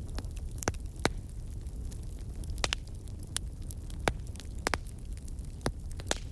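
Wood fire in a fireplace crackling: sharp pops and snaps scattered about once a second over a steady low rumble of burning.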